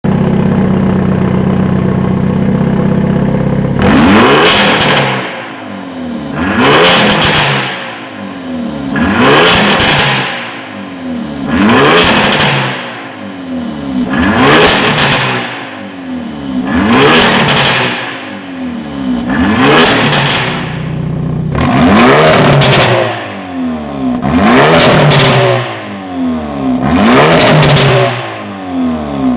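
Hyundai Elantra N's turbocharged 2.0-litre four-cylinder with a straight-piped mid-section exhaust, idling for about four seconds and then revved about every two and a half seconds, about ten times. Each rev falls back with exhaust pops and crackles on the overrun.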